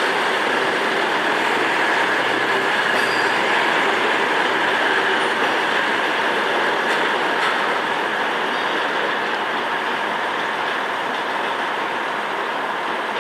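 Train moving on the station tracks: a steady rumble of wheels on rail with faint high wheel squeal, easing off slightly in the second half.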